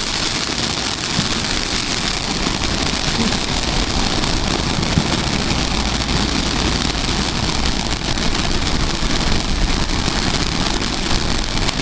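Consumer fireworks cake going off in a dense, continuous crackle and hiss, with wind rumbling on the microphone underneath.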